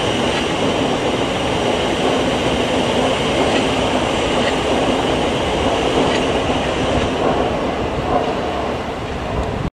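Train running on the line: a steady rumble and rushing noise, cut off abruptly near the end.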